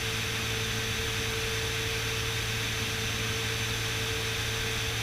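Steady drone of a Beechcraft Bonanza S35's piston engine and propeller in cruise, heard from inside the cabin as an even rushing noise with a constant hum.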